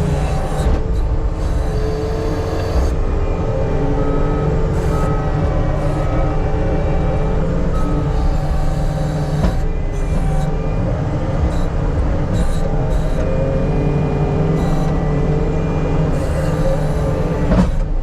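Heavy diesel earthmoving equipment running steadily under load, with short repeated high beeps at times.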